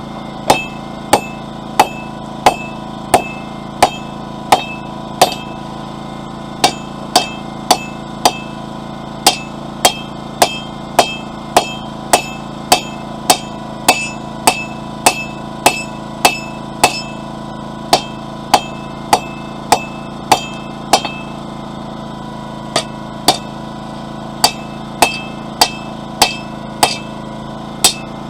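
Blacksmith's hammer striking hot flat steel bar on an anvil in a steady rhythm, about one and a half blows a second, each with a short metallic ring. There is one brief pause about three-quarters of the way through. A generator hums steadily underneath.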